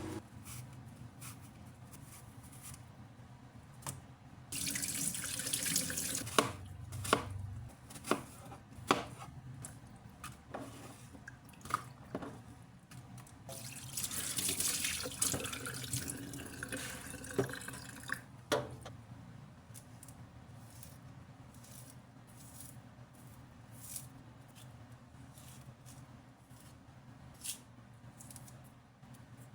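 Water running from a tap into a sink in two spells of a few seconds each, with scattered knocks and clinks of things being handled around it.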